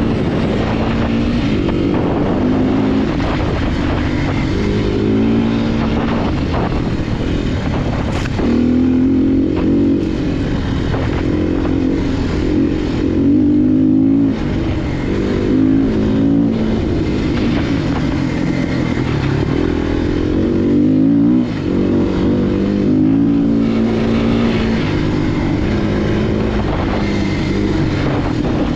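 Off-road motorcycle engine under constant throttle work, revving up and down as it picks its way over rock, with a sharp knock about eight seconds in.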